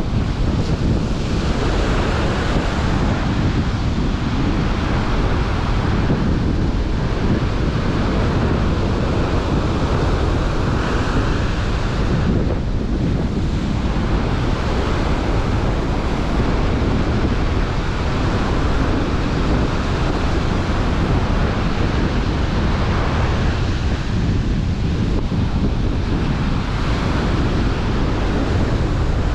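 Strong wind blowing across the microphone, with ocean surf breaking on the beach under it.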